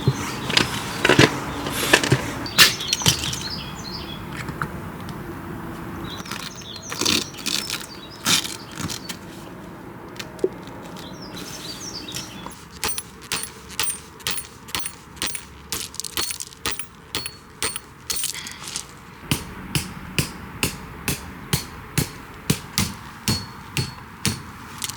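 Scattered knocks and clatter, then from about halfway a steady run of sharp strikes about twice a second, each with a short metallic ring: metal tent pegs being hammered into the ground.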